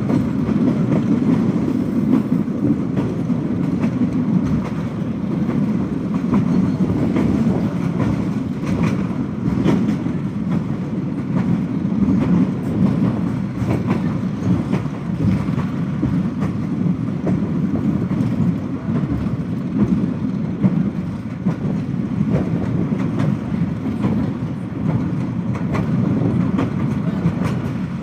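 Passenger train running along the track: a steady rumble of the coach with irregular clicks of the wheels over the rail joints.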